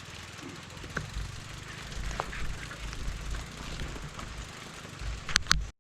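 Bicycle riding noise: wind rumbling on the microphone, with scattered clicks and knocks from the bike, two sharp ones near the end.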